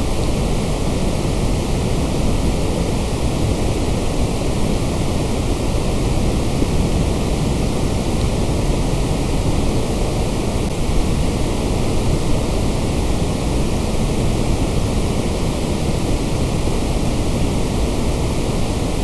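Generated white noise: a steady, unchanging hiss across the whole pitch range, with no breaks or events.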